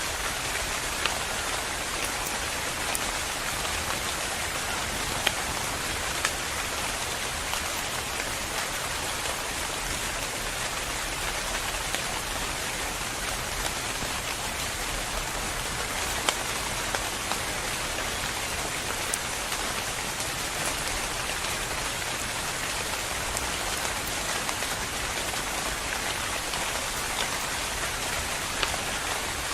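Steady rain falling, an even hiss with now and then a sharper tick of a single drop.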